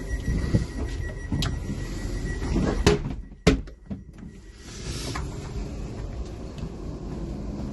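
A door on board a moving electric multiple-unit train closing with two sharp clicks about three seconds in, after which the low running rumble drops away briefly; a short hiss follows and the rumble comes back.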